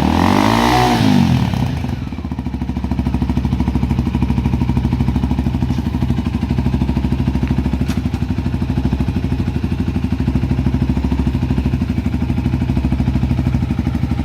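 Motorcycle engine revved once, its pitch rising and falling back over the first two seconds, then idling steadily with an even low pulse.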